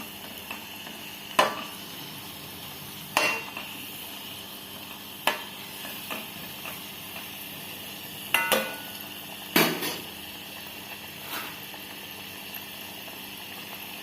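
Breadcrumb-coated chicken momos deep-frying in oil with a steady sizzle. A metal utensil clinks against the pan about six times, some strikes ringing briefly.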